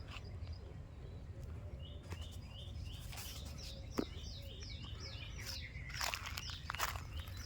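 A bird chirping a quick run of short repeated notes, about four or five a second, from about two seconds in until about six seconds. There are a few sharp clicks over a steady low rumble.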